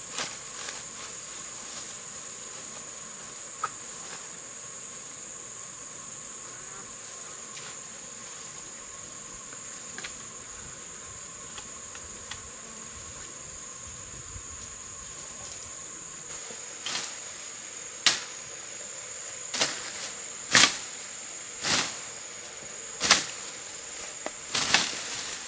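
Insects, such as crickets or cicadas, droning steadily at a high pitch. In the last third there is a run of about eight sharp knocks or strikes, roughly one a second, louder than the insects.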